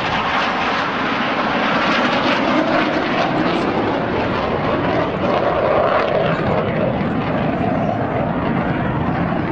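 Fixed-wing aircraft engine noise from a display fly-past: a loud, steady rushing sound with no break.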